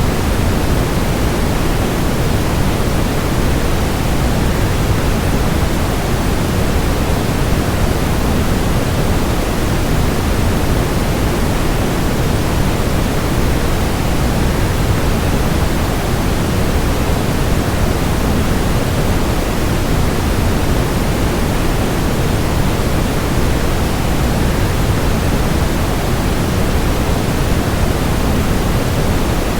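Waterfall noise: a steady, unbroken rush of falling water, heaviest in the low end, with no changes or separate events.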